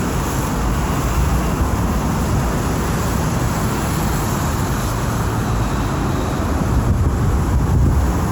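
Steady street traffic noise: road vehicles running past in a constant low rumble, swelling slightly near the end.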